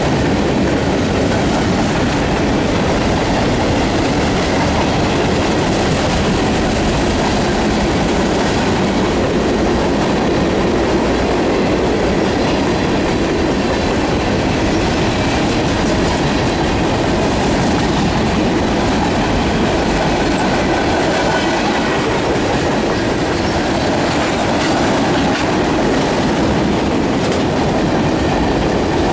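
Freight train cars rolling past close by: a steady rumble of wheels on rail, with clicking as the wheels cross rail joints.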